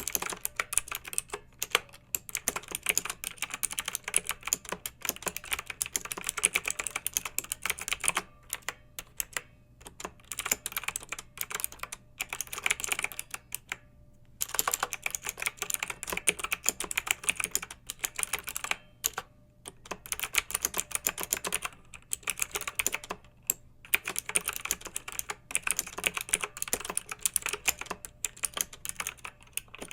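Fast typing on a clicky mechanical keyboard: rapid keystroke clicks in runs broken by brief pauses.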